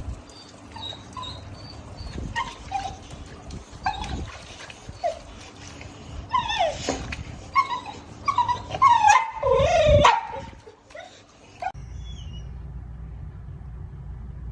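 A dog whining and whimpering in short high cries, which grow into louder, wavering drawn-out whines partway through.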